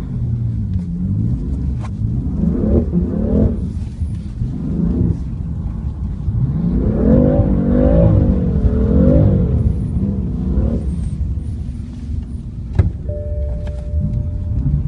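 A BMW xDrive car's engine, heard from inside the cabin, with its revs rising and falling in waves as the car accelerates and eases off. A single sharp click comes near the end.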